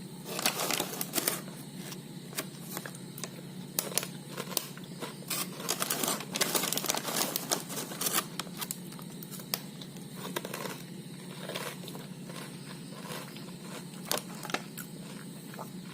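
Irregular, crisp crackling and crunching from the potato cracker snack being handled or eaten. It is densest in the first half and grows sparser toward the end.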